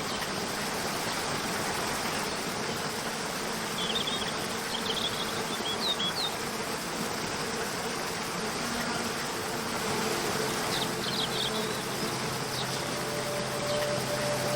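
Steady rush of falling water from a waterfall, with a few short high chirps about four and eleven seconds in. Soft sustained music notes come in during the second half.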